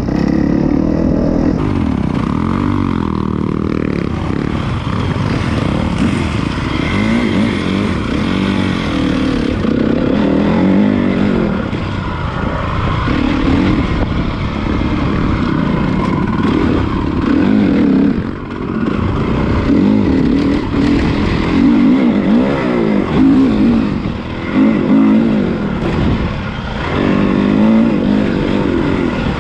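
Honda CRF450 motocross bike's single-cylinder four-stroke engine under way, revving up and dropping back again and again as the throttle opens and closes.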